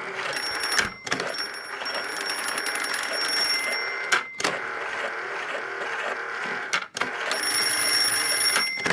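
Battery-powered electric bell of a 1970s Palitoy Bradgate toy telephone ringing continuously after being switched on, with a few brief breaks in the ring.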